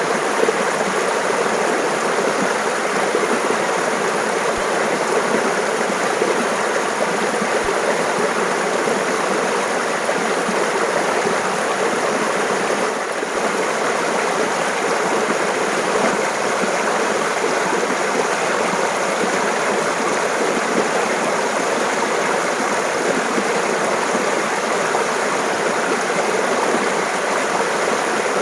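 Clear water flowing and splashing steadily over rocks in a mountain stream.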